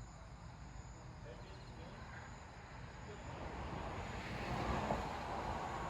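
Outdoor night background with a passing vehicle: a low rumble and broad noise that swell from about three seconds in and peak near the end.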